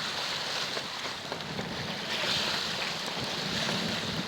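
Steady rush of wind on the microphone and water washing along the hull of a sailboat under way.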